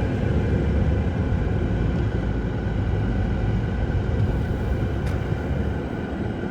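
Steady low rumble of a vehicle driving, engine and road noise heard from inside the cab.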